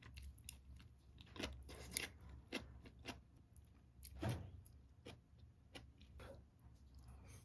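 Faint close-up eating sounds: a person chewing food, with scattered light clicks of chopsticks against ceramic dishes.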